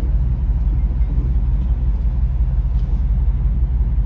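Steady low engine and road rumble inside a moving vehicle's cabin, cruising at an even speed with no revving.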